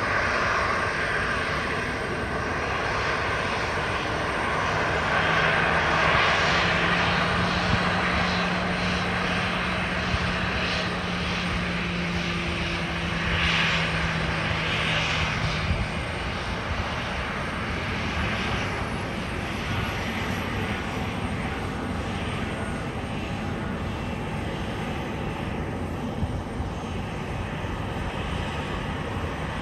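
Jet airliner engines droning outdoors, loudest in the first half, with a low steady hum that stops about sixteen seconds in before the noise gradually eases off.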